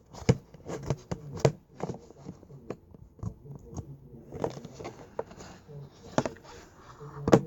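Slime being squished and poked by hand, giving a string of irregular wet clicks and pops, several a second, with the loudest pop near the end.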